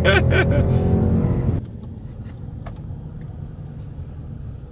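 Ford Mustang GT's V8 engine heard from inside the cabin, pulling hard with a deep drone. About a second and a half in, the sound drops off sharply as the throttle is released, leaving a quieter steady engine and road rumble.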